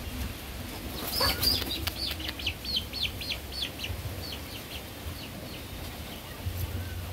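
A bird chirping in a quick run of short, high, falling notes, about three or four a second, that starts about a second in and fades out by about five seconds in. It opens with a brief, louder rustling flurry.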